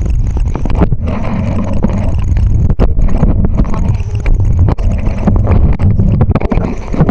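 Loud rumble and buffeting on the microphone with many irregular rattling knocks, as from riding a bicycle over rough ground.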